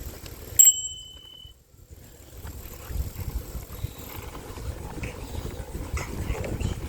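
Wind buffeting the microphone and rolling noise on a bicycle ride, a steady low rumble. A little over half a second in there is one sharp, loud click with a short high ring, after which the sound drops almost to nothing for about a second before the rumble resumes.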